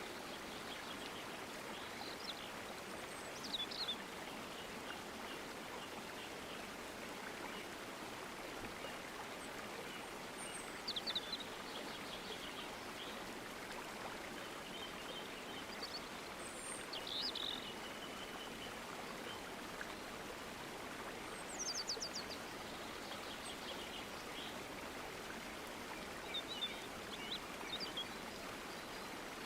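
Nature ambience: a steady rush of flowing stream water with birds chirping briefly every few seconds.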